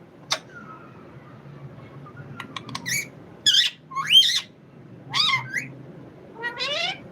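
Pet parrot making about five short calls in the second half, several rising in pitch, after a sharp click near the start and a few lighter ticks.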